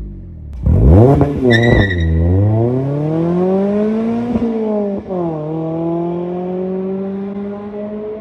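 Mazda MX-5 ND2's four-cylinder engine through a Goodwin Racing RoadsterSport race exhaust, revved in quick sharp blips, then pulling hard with a climbing note that drops twice, around four and five seconds in, and settles into a steady, slowly rising drone.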